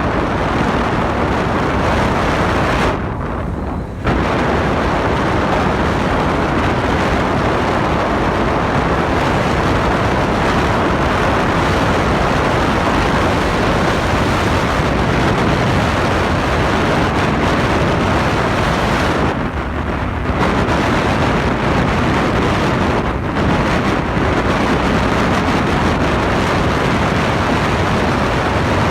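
Small tunnel-hull boat running fast into the wind: engine noise buried under heavy wind buffeting on the microphone, a steady loud roar that drops briefly about three seconds in and again around twenty seconds in.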